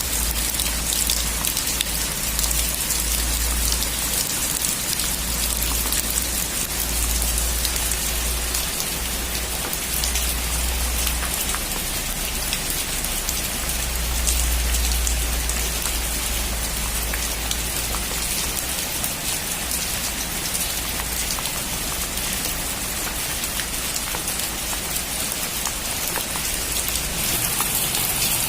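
Heavy rain drumming on a metal roof: a dense, steady patter of drops, with a low rumble underneath that swells and fades.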